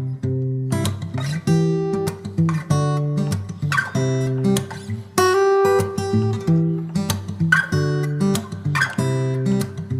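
Background music played on acoustic guitar, strummed and plucked chords in a steady rhythm.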